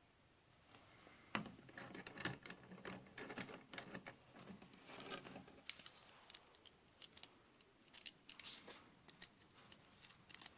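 Faint, irregular clicks and rattles of battery chainsaw parts (bar and chain) being handled and fitted, with a sharper knock about a second in and another about two seconds in.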